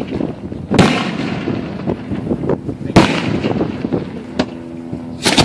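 Aerial fireworks shells going off close by: a heavy boom about a second in, a louder one about three seconds in, and another at the very end, each ringing out, with a thinner crack in between.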